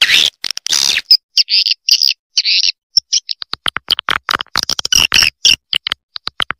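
Recorded swiftlet calls from a lure track for swiftlet nest houses: sharp, high twittering chirps, longer buzzy ones in the first three seconds, then a fast run of short clicks and chirps, separated by dead-silent gaps.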